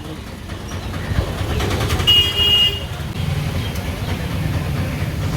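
Road traffic: a vehicle horn honks once, briefly, about two seconds in, over a steady low engine rumble.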